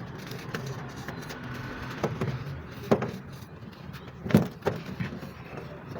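Dried red mud crumbling: a few sharp crunches and cracks, the loudest about four and a half seconds in, over a steady background rumble.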